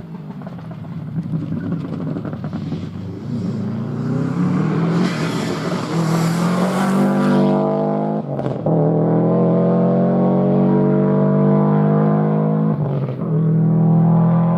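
Four-wheel-drive rally car accelerating hard, its engine note climbing. The note cuts out briefly at two gear changes, about eight and about thirteen seconds in.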